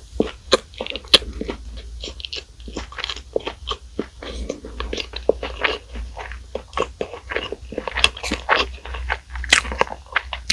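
Close-miked biting and chewing of crispy fried food, a dense run of irregular crunches and crackles.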